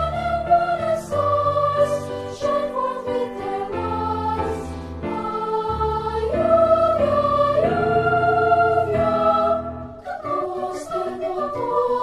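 A choir singing in parts, several voices holding chords and moving between notes, with sung 's'-like consonants cutting in now and then. The singing breaks off briefly about ten seconds in and then resumes.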